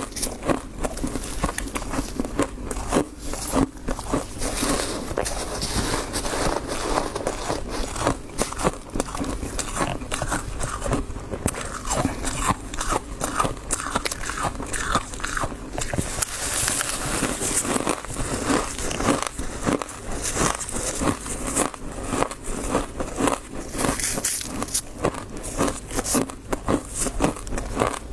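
Close-miked biting and chewing of crunchy frost: a continuous run of irregular crackles and crunches.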